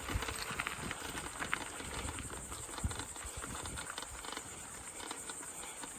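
Bicycle rolling along a sandy dirt trail: tyres crunching over grit with irregular clicks and rattles.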